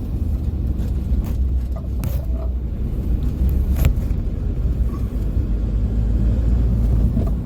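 Car driving along a road, heard from inside the cabin: a steady low rumble of road and engine noise, with a couple of brief clicks about two and four seconds in.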